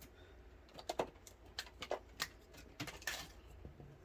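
Scattered light clicks and taps of small objects being handled and set down on a work table, with a short rustle about three seconds in.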